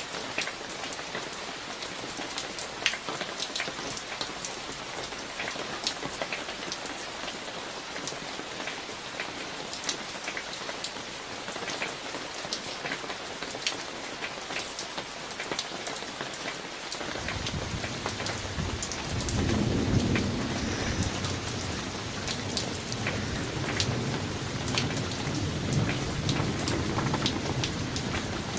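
Summer thunderstorm: steady rain with many sharp individual drop hits. About 17 seconds in, a low rumble of thunder starts, swells a few seconds later and keeps rolling.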